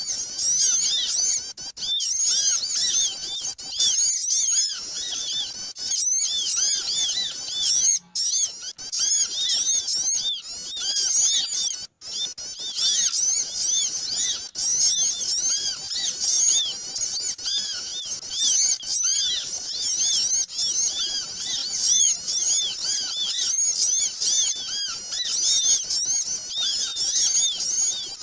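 Dense, noisy chorus of many small birds chirping and chattering over one another, with two brief breaks in the sound. It is a bird-lure (pikat) recording used to call small birds in.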